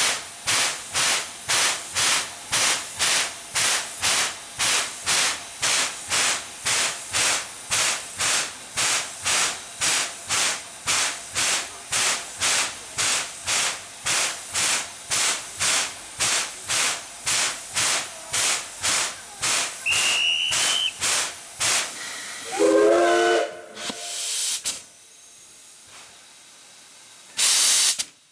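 Steam locomotive C11 229 pulling away, its exhaust chuffing in an even beat of about two puffs a second until the chuffs fade out about three-quarters of the way through. A brief whistle-like tone sounds near the middle of the second half, and a short, loud burst of hiss comes near the end.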